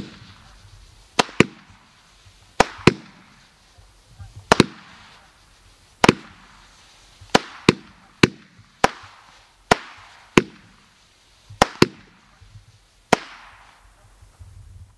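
Cutting Edge 'Scene of the Crash' consumer fireworks cake firing: about sixteen sharp bangs at uneven intervals, several in quick pairs, each trailing off in an echo.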